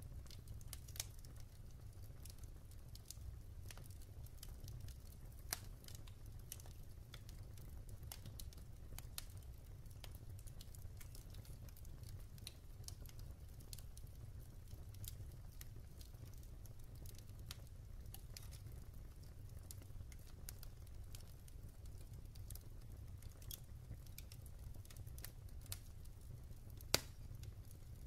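Wood fire burning in a fireplace: irregular crackles and small pops from the burning logs over a steady low rumble of the flames, with one sharper pop near the end.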